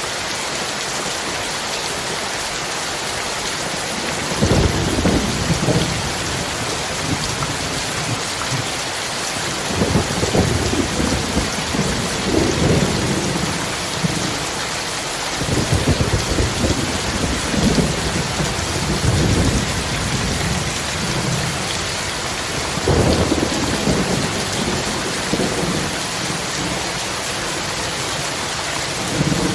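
Steady heavy rain hissing, with thunder rolling in low rumbles about four times, each lasting a few seconds.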